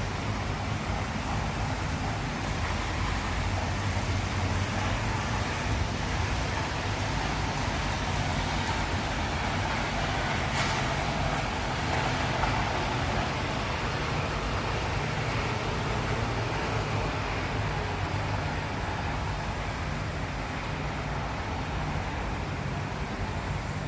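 Road traffic: a steady hum of engines with tyre hiss from roads wet after rain. One passing vehicle swells louder about ten seconds in, with a brief sharp tick as it goes by.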